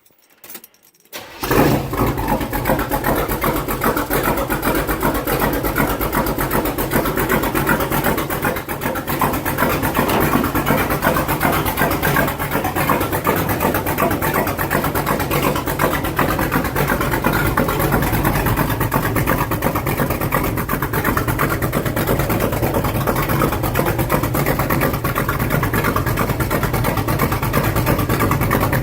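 1970 Chevelle engine starting: a short crank about a second in, then it catches and runs at a loud, steady idle through short glass-pack exhaust pipes welded straight onto the headers.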